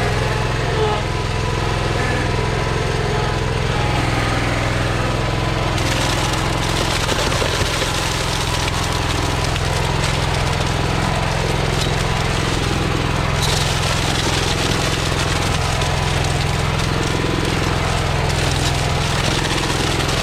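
Small engine of the rented concrete machine running steadily at an even pitch. About six seconds in, a rough hissing, scraping noise joins it, and it grows louder about thirteen seconds in.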